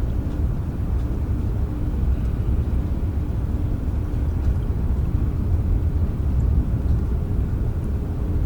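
Steady rain with a deep, even rumble and a few faint drop ticks.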